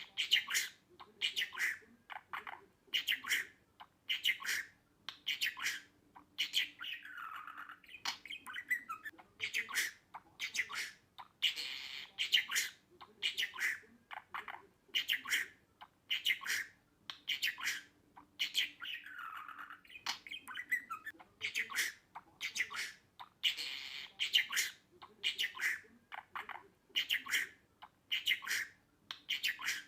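Budgerigar calling in short, sharp chirps that repeat about once or twice a second, broken now and then by a longer warble that falls in pitch.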